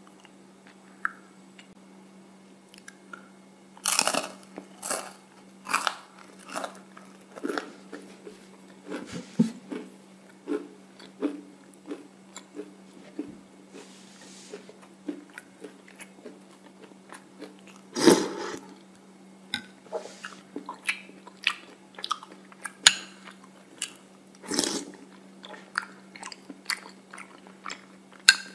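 Close-up crunching and chewing of waffle cone: sharp crisp bites at irregular intervals, starting about four seconds in, with the loudest near the middle and toward the end. A faint steady low hum runs underneath.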